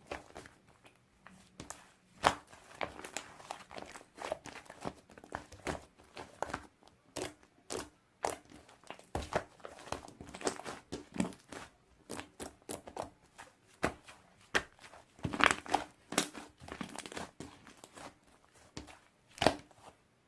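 Slime being squeezed, stretched and poked by hand, giving an irregular run of sticky clicks, pops and crackles, with a few sharper snaps.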